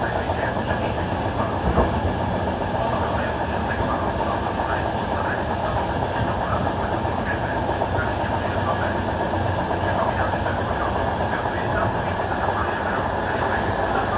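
Intercity passenger train running along the track, heard from its last coach: a steady rumble of wheels on rail with clickety-clack over rail joints, and one sharper knock about two seconds in.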